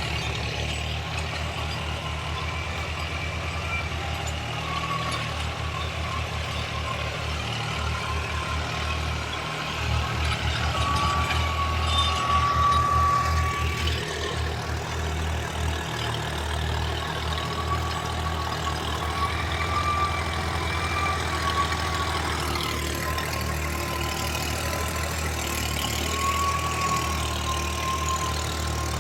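New Holland tractor's diesel engine running steadily, with a faint wavering whine above it; it grows louder from about ten seconds in for a few seconds, then settles back.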